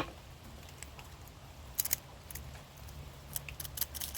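Small metallic clicks and scrapes of a flathead screwdriver turning a go-kart carburetor jet loose, scattered at first, then coming quickly together near the end, over a low steady hum.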